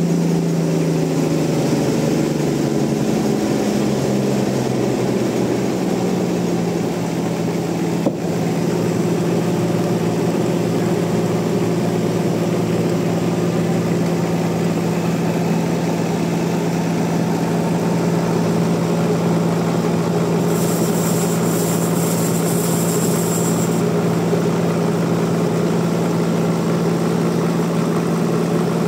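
Sawmill engine running steadily with a deep hum, its lower tones sliding down and settling over the first few seconds. A short high hiss cuts in about three-quarters of the way through.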